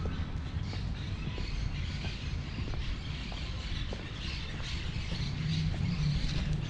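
Birds chirping and twittering over a steady low rumble, with scattered faint ticks.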